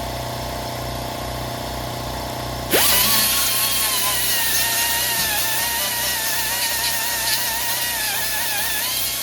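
A steady low mechanical hum, then about three seconds in a grinder spins up and grinds steel, its whine wavering as it bears on the metal, smoothing down a fresh weld.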